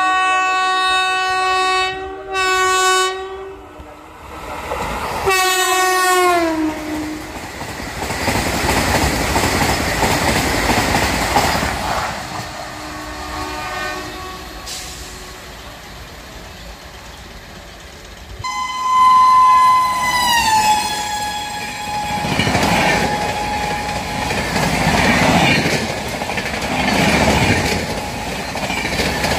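Express train horns blaring as trains race past at speed: a Vande Bharat trainset's horn holds steady, then drops in pitch as the train passes, followed by the rush of its coaches. About 19 s in, a second train's horn sounds and falls in pitch, then its passenger coaches clatter past in a pulsing rumble.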